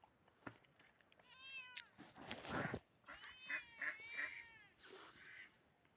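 A cat meowing faintly several times, each meow rising and then falling in pitch, with a cluster of meows in the second half.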